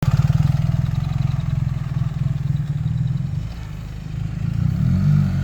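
BMW R 1300 GS motorcycle's boxer-twin engine running while riding, easing off briefly a little past halfway and picking up again near the end.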